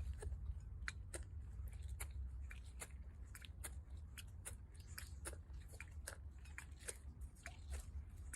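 Faint, irregular crisp clicks or crunches, a few a second, over a low steady hum.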